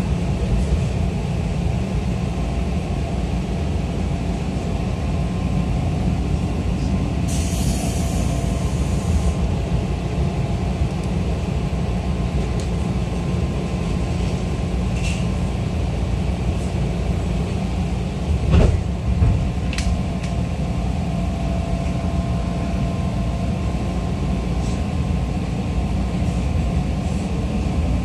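Running noise inside a JNR 211 series electric train's motor car (MoHa 210): a steady low rumble of wheels on the rails and the running gear. A short hiss comes about seven seconds in, and a sharp knock about two-thirds of the way through.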